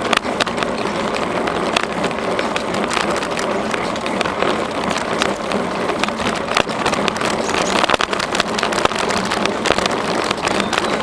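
Steady noise of riding a bicycle along a trail: wind on the microphone and tyres on the path, with frequent small clicks and rattles.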